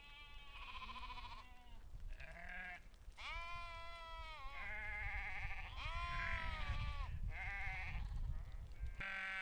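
A flock of sheep bleating, about seven or eight wavering calls in quick succession. The calls overlap at different pitches, some higher than others.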